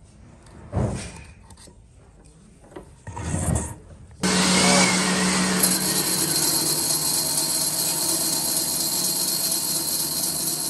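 A power tool working wood switches on about four seconds in and runs steadily and loudly, with a low motor hum under a strong hiss. Before it, two brief scraping or handling noises.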